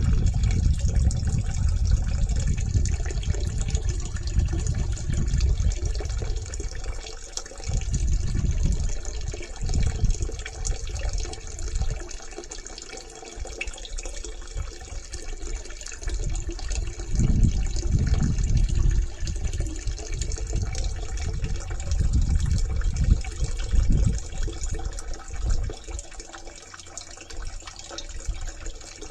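Steady rush of flush water running from a sewer pipe, with irregular low rumbles.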